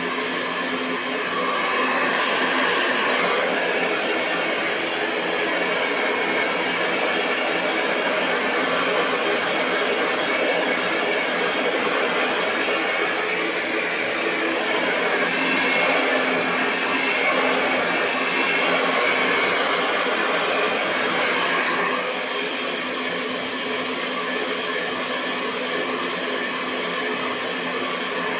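Hair dryer blowing continuously: a steady rush of air over a constant motor hum. It gets slightly louder about two seconds in and drops back down about three-quarters of the way through.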